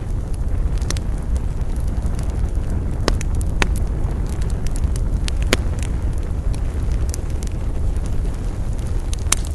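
Wood campfire burning: a steady low rumble with irregular sharp crackles and pops, the loudest pops coming about three, five and a half and nine seconds in.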